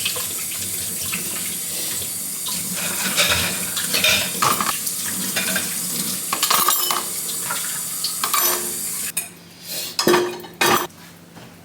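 Tap running into a sink while dishes and cutlery are washed, with clinks and knocks of crockery. The water is shut off about nine seconds in, followed by a few dish knocks.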